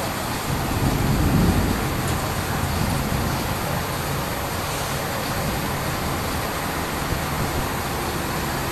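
Thunder rumbling low, swelling and fading in the first two seconds, then a steady rushing noise of rain.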